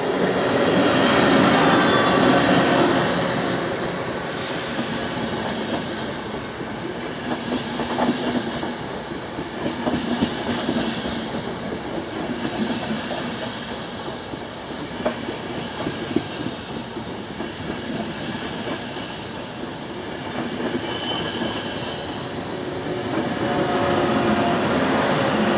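Intercity train with an E.414 electric locomotive at each end passing through a station. The leading locomotive goes by loudest first. The coaches then clatter past with sharp wheel clicks over the rail joints, and the sound rises again near the end with a whine as the trailing E.414 passes.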